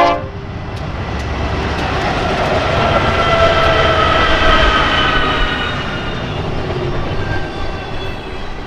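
BNSF freight train passing at track side: a loud steady rumble of locomotives and rolling cars that swells to its loudest about four seconds in and then eases off, with a faint steady whine running over it. A train horn blast cuts off at the very start.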